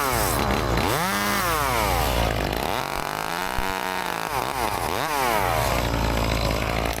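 Gas chainsaw's throttle repeatedly dropping toward idle and revving back up, with several quick blips near the middle, then running steady at mid revs near the end.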